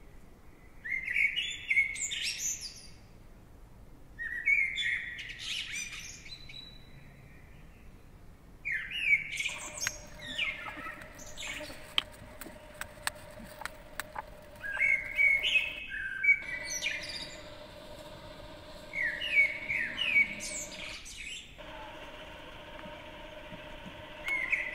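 Songbirds chirping and singing in short repeated phrases, in bouts with pauses between them. A faint steady hum sits underneath from about ten seconds in, and a few faint clicks come near the middle.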